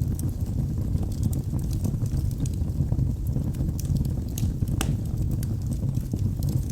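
Wood logs burning in a fireplace: a steady low rumble of flame with frequent small crackles, and one sharper pop about five seconds in.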